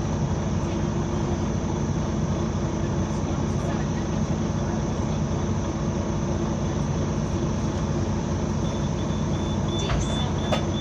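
Bus engine running steadily with a constant low hum, the unusual noise this bus makes only while its engine is on. About nine seconds in, a rapid high-pitched pulsing beep starts, and a couple of sharp clicks come near the end.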